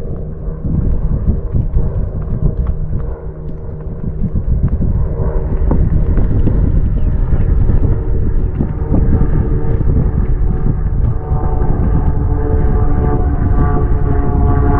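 WW2-era propeller warplanes flying overhead: a low, droning engine rumble that grows louder about five seconds in and stays loud.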